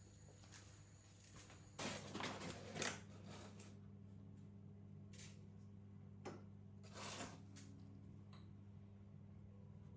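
Very quiet room with a low steady hum and a few faint handling noises: a cluster of brief scrapes about two to three seconds in, and shorter ones around five to seven seconds.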